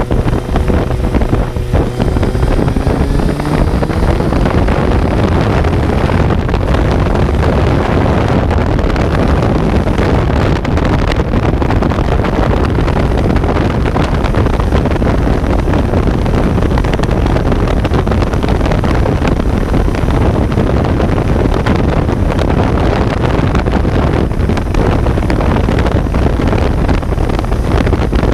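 Kawasaki Z900's inline-four engine heard on board while riding, its note rising in pitch over the first few seconds as the bike accelerates. After that the engine runs on at speed under a heavy rush of wind on the microphone.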